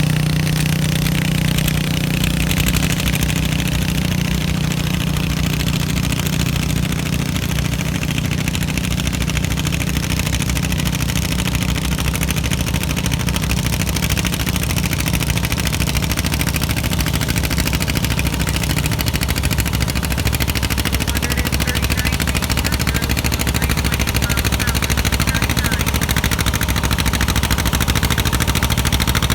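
John Deere A's two-cylinder engine running steadily at a tractor pull, its low note dropping lower about twenty seconds in.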